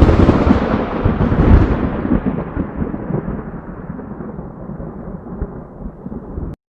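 A thunderclap rolling into a long low rumble that slowly fades, then cuts off suddenly near the end.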